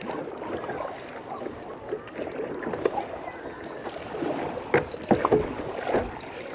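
Kayak paddling: water splashing and lapping at the paddle and hull, with a few sharp knocks a little under five seconds in.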